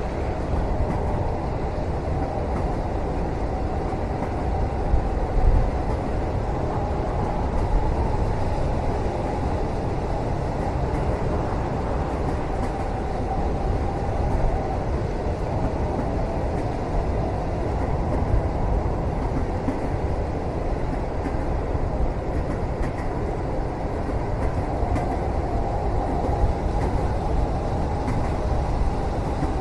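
Steady rumble of a moving train heard from inside a carriage, with a few light knocks, the loudest about five seconds in.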